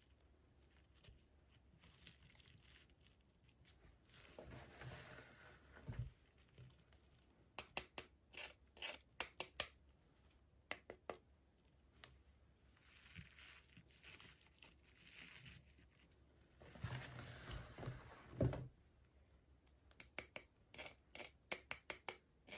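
Packaging being handled and opened by hand: stretches of crinkling rustle broken by runs of quick, sharp clicks and snips.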